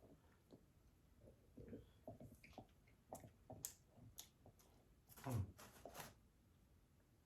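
Faint eating sounds: soft chewing and small clicks of food being handled, with a louder burst of noise about five seconds in.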